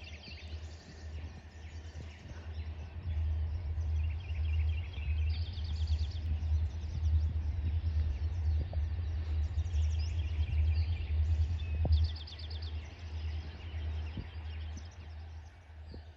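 Songbirds singing repeated trilled phrases, over a low rumble that swells and then fades after about twelve seconds.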